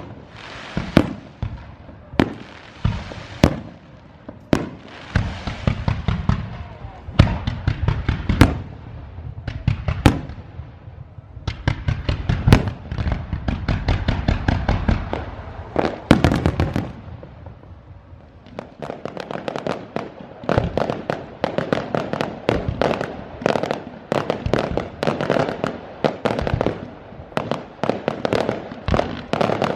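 Aerial fireworks bursting: sharp single bangs about once a second, then from about seven seconds in a dense run of rapid crackling and popping, a brief lull, and another dense crackling barrage.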